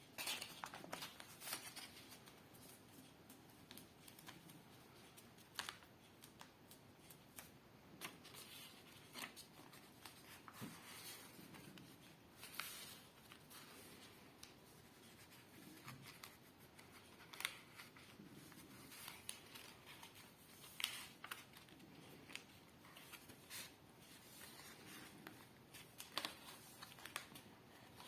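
A sheet of paper being folded and creased by hand: faint, scattered crinkles and rustles, with a sharper crackle every second or two.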